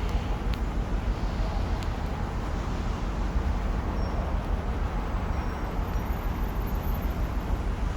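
Lexus LS430's 4.3-litre V8 engine running with a steady low rumble.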